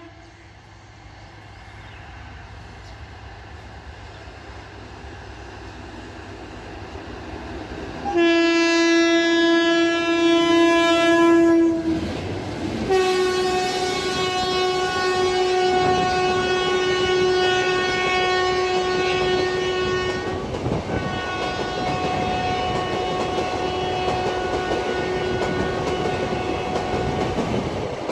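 Twin WAG-7 electric freight locomotives approaching and running through with an NMG coach rake: the rumble builds steadily, then the loud air horn sounds in long blasts, repeated after short breaks. The coaches rattle past with a clickety-clack of wheels over rail joints.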